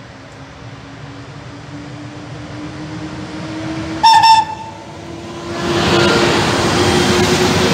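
FS class E.652 electric locomotive hauling loaded car-carrier wagons approaches and passes close by. A steady hum grows louder, a short horn blast about four seconds in is the loudest moment, and from halfway through the locomotive and wagons rumble past.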